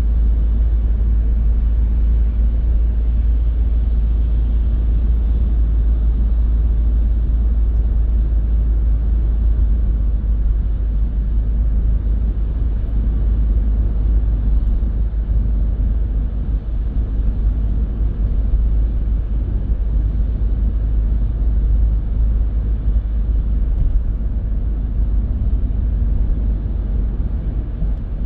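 Car driving along a road: a steady, deep rumble of tyre and engine noise.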